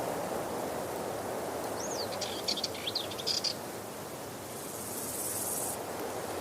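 Waterfall: a steady rush of falling water. About two seconds in, a bird sings a short phrase of quick whistles and chirps. A brief high hiss follows near the end.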